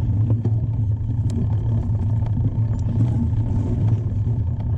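Steady low rumble with scattered light clicks and rattles, from a mountain bike being ridden: wind on the microphone and the bike's own rattle.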